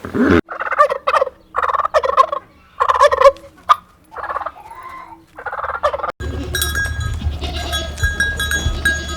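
A fowl gobbling, five separate rapid, pulsing calls over about six seconds. After a sudden cut, a steady low hum with high, thin chirping tones comes in.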